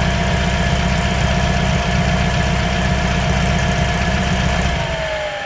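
VW air-cooled 2386 cc stroker engine idling with a steady whine, the oil cooler fan switched on. Near the end the engine's rumble cuts out and the whine falls in pitch as it winds down.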